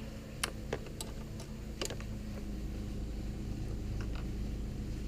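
A few light clicks and taps of hand work on a motorcycle battery terminal, fitting the battery tender's red and black leads, bunched in the first two seconds with a couple more around four seconds, over a steady low hum.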